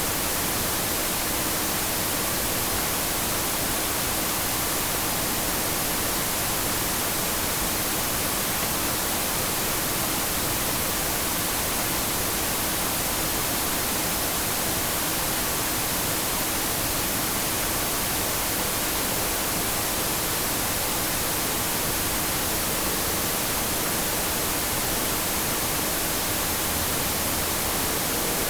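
Steady white-noise static hiss, even from low to high pitches and unchanging, with a faint steady hum underneath.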